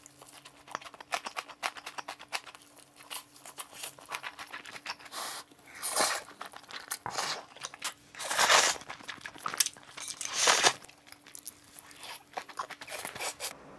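Close-up eating sounds of a person eating mala xiang guo and tuna kimbap: crunchy chewing with many small clicks and smacks. Louder crunches come about six, eight and a half, and ten and a half seconds in.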